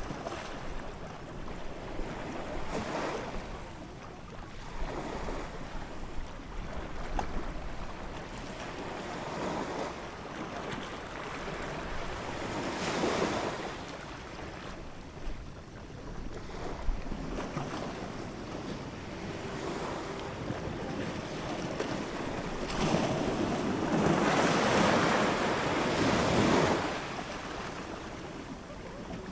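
Ocean waves breaking and washing up the shore in slow surges, with a larger wave breaking near the end.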